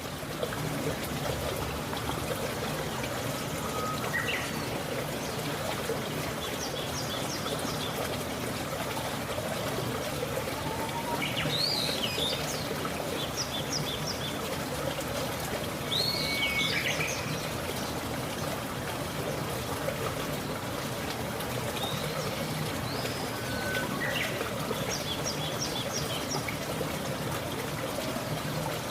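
Small birds calling now and then over a steady rushing noise: a few short, bending chirps and several quick runs of high ticking notes.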